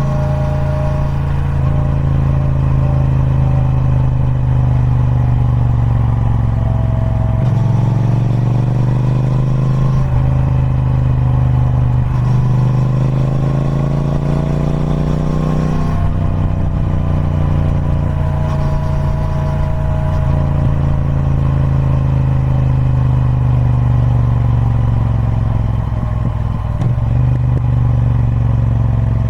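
Triumph Speed Twin 1200's parallel-twin engine through its stock exhaust, running steadily. Its pitch climbs twice, about a quarter of the way in and again around the middle, each time dropping back.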